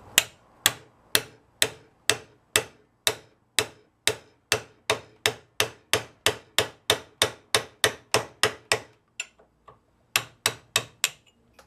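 Hammer blows on a newly forged and hardened carbon-steel cold chisel driven into a half-inch steel bar: a long run of sharp, ringing strikes, about two a second and quickening. About nine seconds in they pause for a few light taps, then about five more strikes follow. This is a cutting test of the hardened edge.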